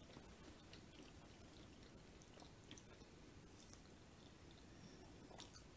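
Near silence with faint chewing of deep-fried Kool-Aid cake balls and small mouth clicks, one of them slightly louder just under three seconds in.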